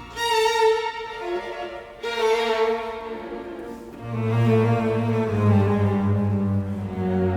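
Background music of bowed strings: cello and violin playing slow, held notes, with deep bass notes coming in about halfway through.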